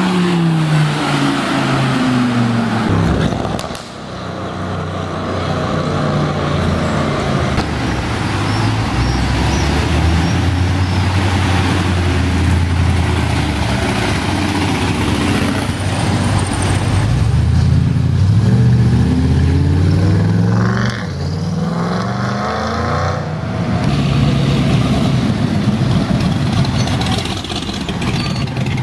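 Car engines on a street. A Lamborghini Huracán's engine drops in pitch as it drives past in the first few seconds, then engines run at low revs. Several revs rise and fall about two-thirds of the way through, and a deep steady engine note holds near the end.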